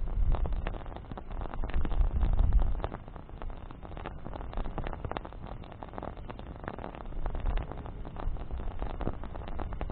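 Wood campfire burning, the branches crackling with frequent sharp pops. A low rumble under it is louder for the first three seconds, then eases off.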